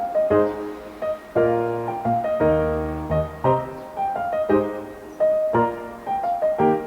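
Background music: a gentle piano piece playing chords at an even pace.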